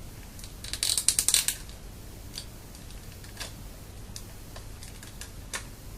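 Hard plastic toy parts clicking and rattling as they are handled and fitted together: a quick cluster of clicks about a second in, then a few single clicks.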